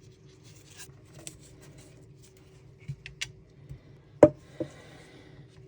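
Hard PETG 3D-printed plastic parts being handled and fitted together: small scattered clicks and rubs, then a sharp knock about four seconds in and a lighter one just after as a piece is set down, followed by a brief faint hiss.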